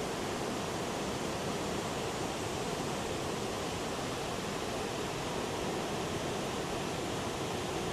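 Big storm surf breaking, a steady, unbroken roar of wave noise.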